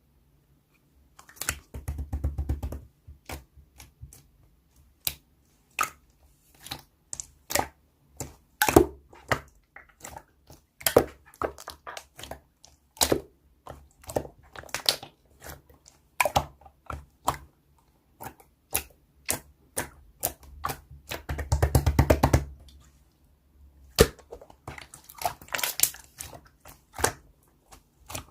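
Slime being worked by hand, giving irregular sharp clicks and sticky pops, with two longer stretches of dense crackling, about two seconds in and again about twenty-two seconds in.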